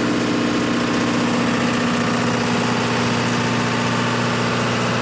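Diesel machinery in a motor yacht's engine room running steadily, a loud constant drone with even engine tones that do not change.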